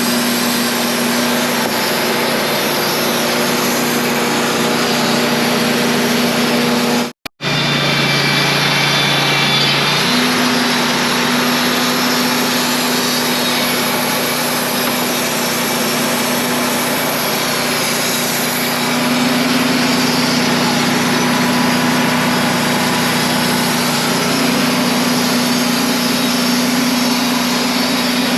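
Wood-Mizer portable band sawmill running loud and steady, with a steady engine hum. The sound cuts out briefly about seven seconds in. It comes back with a lower hum that steps back up to its earlier pitch about ten seconds in.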